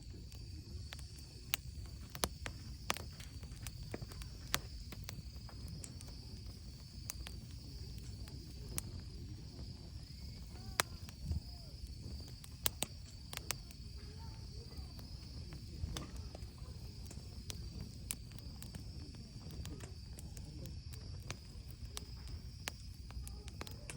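Wood fire burning in a camping fire pit, crackling with irregular sharp pops and snaps over a low, steady rumble of flames. A steady high insect trill, such as crickets, runs underneath.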